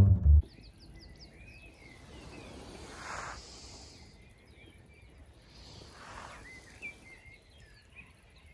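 A music bed cuts off about half a second in, then songbirds chirp and twitter steadily while two brief gusts of wind rise and fall, about three and six seconds in.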